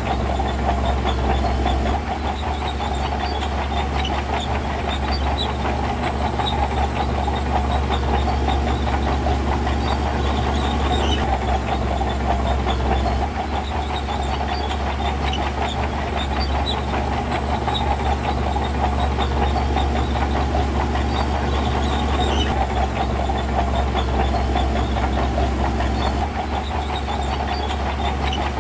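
Diesel engine of heavy earth-moving machinery running steadily, with a dense rattling texture over a low hum. The sound shifts abruptly a few times.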